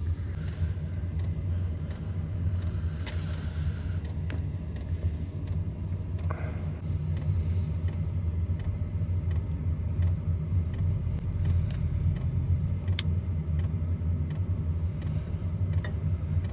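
Steady low motor hum, with light clicks and ticks scattered over it.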